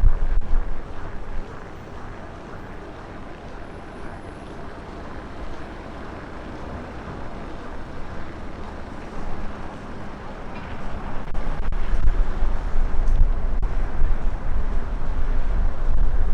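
Storm wind buffeting the microphone, a low booming noise over a steady windy hiss. It eases after about a second and picks up again in heavier gusts from about eleven seconds in.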